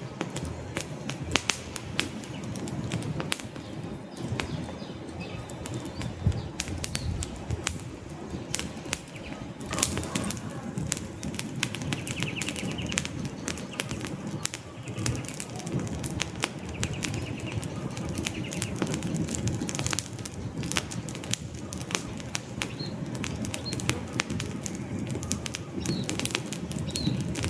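Wood fire in a fireplace crackling, with frequent sharp, irregular pops and snaps of the burning logs over a steady low rush of flames.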